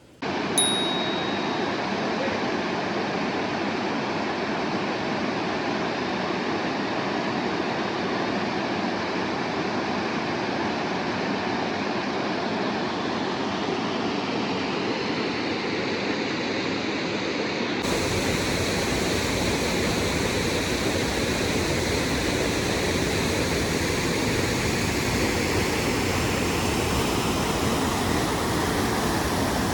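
Waterfall pouring: a steady rushing noise of falling water, its tone shifting slightly about eighteen seconds in.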